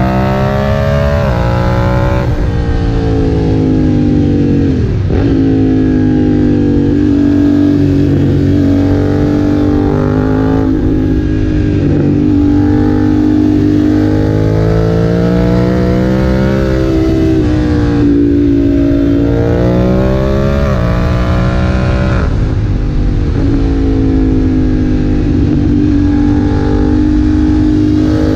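BMW F900R's parallel-twin engine through a Leo Vince aftermarket exhaust, ridden hard. The revs climb and then drop sharply several times, as with throttle roll-offs or gear changes.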